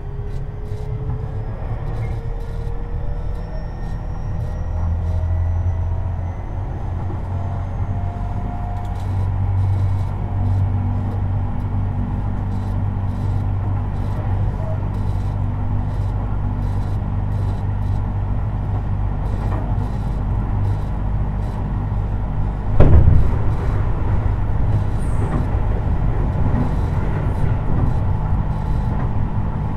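Tobu 50090 series electric train running, heard from inside the car near the floor: a steady low rumble, with the traction motor whine rising slowly in pitch over the first nine seconds as the train picks up speed. About 23 seconds in comes one sharp, loud thump from the wheels and track.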